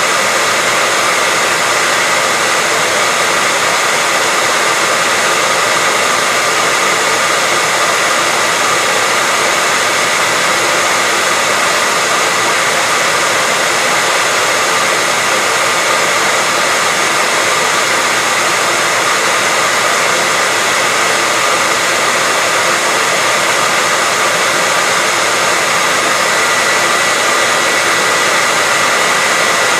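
Electric hairdryer running steadily, a constant rush of air with a steady whine on top.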